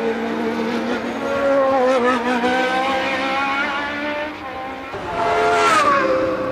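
1982 Formula One race cars running at racing speed, several high-pitched engine notes overlapping. About five and a half seconds in, one engine note falls steeply.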